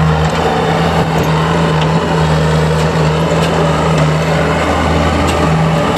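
Engine of the machine pushing the burnt tractor, running steadily at low revs.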